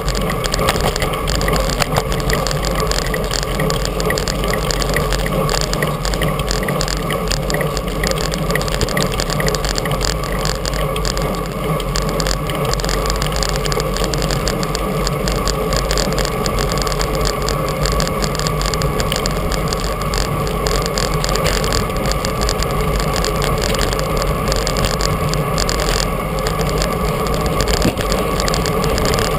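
Steady rush of wind and road noise on an action camera's microphone while riding a road bike.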